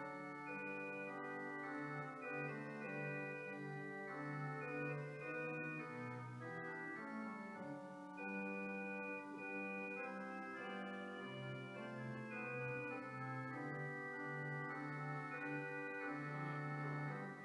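Church organ playing sustained chords over a moving bass line.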